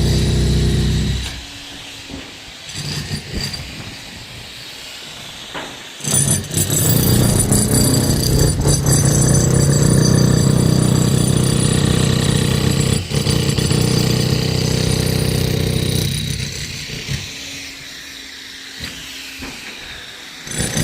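Electric demolition hammer chiselling into reinforced concrete, run in bursts. It stops about a second in, starts again about six seconds in and runs steadily for some ten seconds, stops again, and starts once more near the end.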